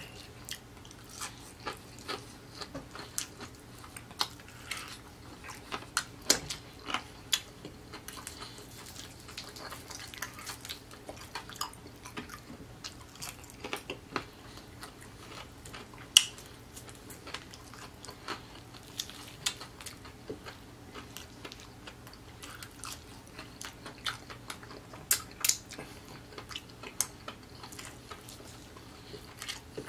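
Close-miked chewing of fried chicken: a steady stream of short mouth clicks and crunches, the loudest about 16 seconds in and again around 25 seconds.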